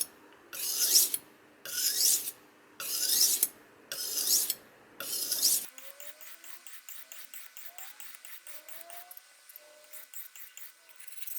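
Kitchen knife blade scraped along the coarse side of a wet whetstone in long strokes about one a second, five in a row. About halfway through the sound drops abruptly to a much fainter, quicker scraping.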